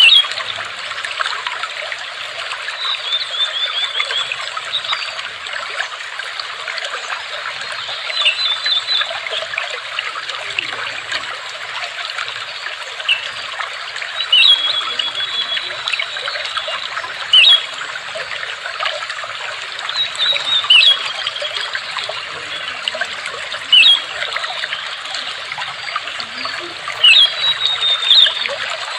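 Water trickling steadily, with a bird giving short high chirps and trills every few seconds.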